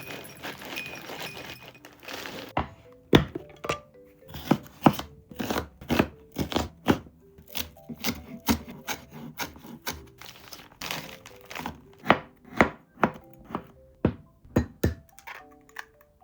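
Knife chopping food on a cutting board in sharp, irregular strokes, about two a second, starting a few seconds in.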